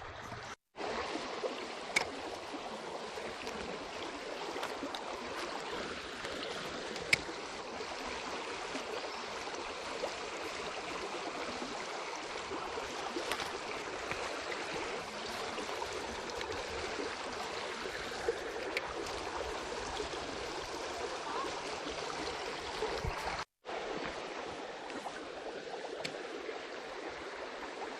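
Small trout stream running with a steady rush of water, broken by a few sharp clicks, the loudest about two and seven seconds in. The sound cuts out for a moment twice, near the start and near the end.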